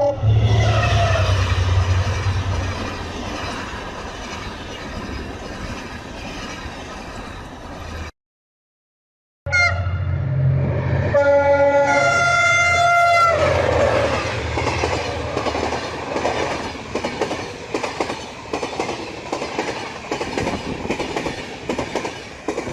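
Train sounds in two short clips. First a train's low rumble, fading off until it breaks off about eight seconds in. After a short silence, a train horn sounds a held chord for about four seconds, then the train runs on with a regular clatter of wheels over the rail joints.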